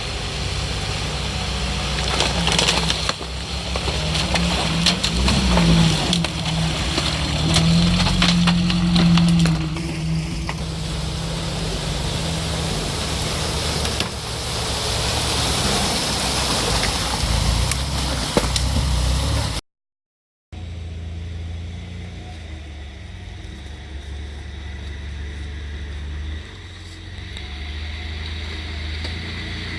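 Off-road vehicle engine running and revving hard through rough ground, with crackling and rustling from the terrain against the body. After a brief break of about a second, a steadier, quieter engine sound runs on.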